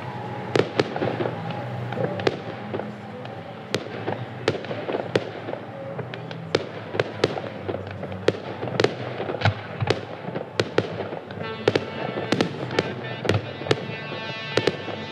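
Fireworks display going off, a steady run of sharp bangs about two a second at uneven spacing, over music playing throughout.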